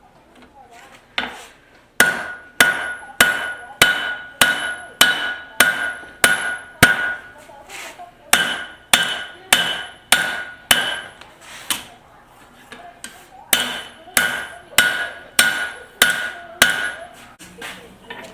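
Hammer blows on hot steel over an anvil at a steady pace of about two a second, each strike ringing. The blows stop for about two seconds, then carry on. This is the forging of the reins of a pair of blacksmith's tongs.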